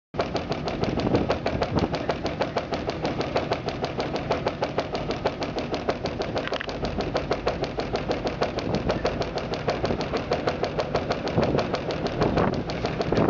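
Washing machine running with a rapid, even knocking rattle, many knocks a second, typical of a drum shaking on worn or rusted suspension rods.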